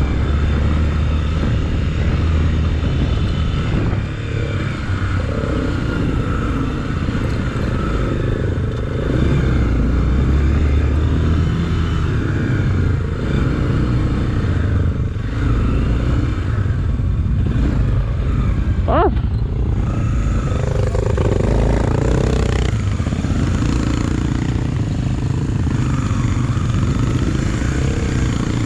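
Honda XRE300 motorcycle engine running while riding, its note rising and falling with the throttle over a heavy low rumble.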